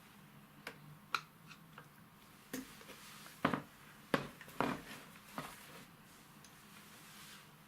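Irregular metallic clicks and knocks, about ten in all, from hand tools and metal parts while a truck starter motor is being taken apart.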